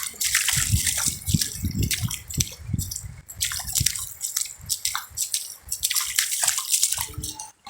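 Shallow water splashing and sloshing in quick, irregular bursts, the low rumble in it easing off about four seconds in.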